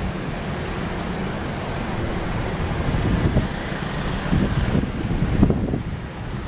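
Steady low rumble of a commuter electric multiple-unit train running along the line, heard from afar, with a couple of louder gusts near the end.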